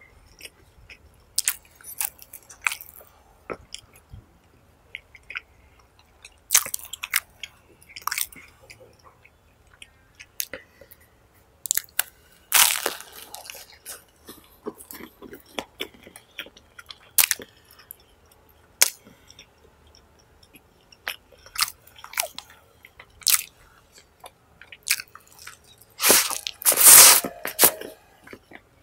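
A person chewing pizza with wet lip smacks and soft clicks throughout. There are louder, longer spells of mouth noise about halfway through and again near the end, likely fresh bites.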